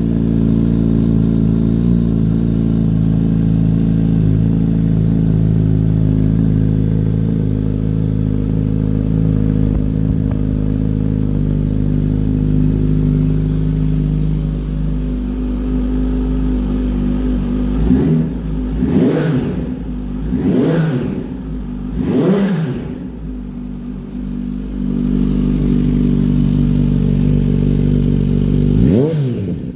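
Kawasaki Z H2's supercharged 998cc inline-four engine idling steadily through an aftermarket Scorpion exhaust, then blipped three times in quick succession a little over halfway through, each rev rising and falling sharply, and once more near the end.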